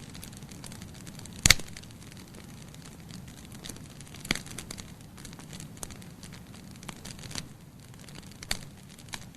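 Wood fire burning in a fireplace: a steady low hiss with frequent small crackles and a few sharp pops, the loudest about a second and a half in and another a little after four seconds.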